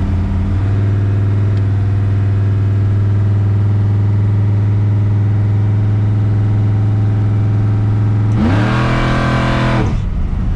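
Car engine running steadily at cruising revs, then revving up sharply for about a second and a half near the end before dropping back.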